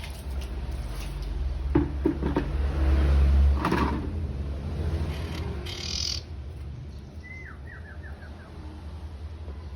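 A small songbird gives a short, quick run of about six chirps, each dropping in pitch, about seven seconds in. This is over a steady low rumble with a few knocks and a brief hiss before it.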